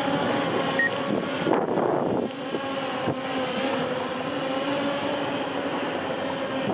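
Wind buffeting the microphone over a steady, slightly wavering motor hum.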